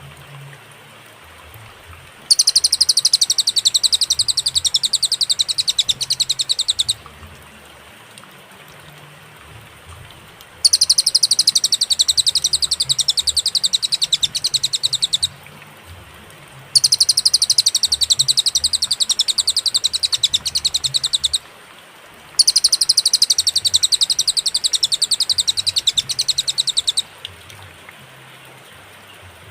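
A cililin songbird singing a loud, very rapid high-pitched trill in four bouts of about four to five seconds each, with short pauses between them.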